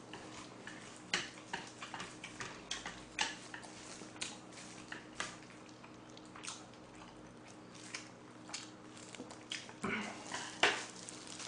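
Close-miked chewing and lip-smacking of a mouthful of food (a lettuce wrap of braised pork trotters and buckwheat noodles), irregular wet clicks several times a second, with a couple of louder smacks near the end.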